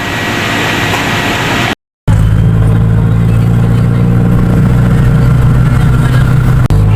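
A motor vehicle's engine running steadily with a low, even hum, heard from on board. Before it, a short stretch of noisy background breaks off in a brief dropout about two seconds in.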